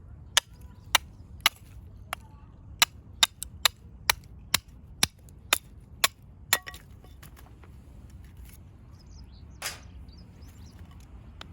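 Firewood being split with a run of sharp chopping strikes, about two a second, that stop a little past halfway; one softer, scraping knock follows near the end.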